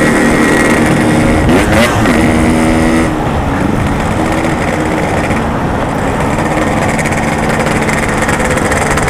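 Yamaha RX-King's two-stroke single-cylinder engine running while riding, its revs rising and dropping back about two seconds in, over a steady low rush of wind on the microphone.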